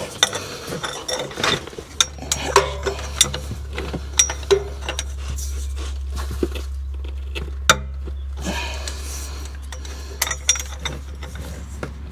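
Metal tools clinking and knocking, irregular and sharp, as a wrench with a cheater pipe is worked against a tight bolt. A steady low hum runs underneath from about two seconds in.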